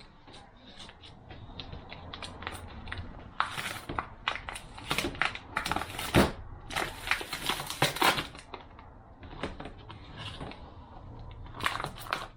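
Transmission clutch discs and steel plates being handled and sorted on a bench: irregular clicks and clatters, busiest in the middle with another cluster near the end.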